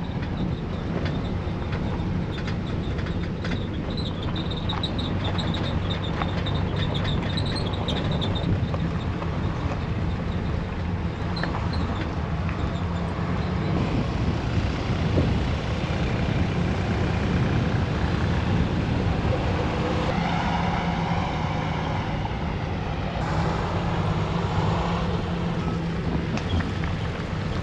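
A pickup truck carrying a camper, running steadily. Its engine drones low and even, under a constant hiss of road and wind noise.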